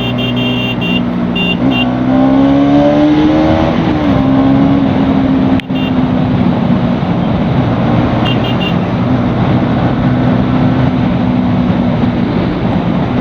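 Bajaj Pulsar NS200's single-cylinder engine running under way with wind noise. It picks up revs about two seconds in, then holds a steady pitch, with a brief cut in the sound a little before halfway.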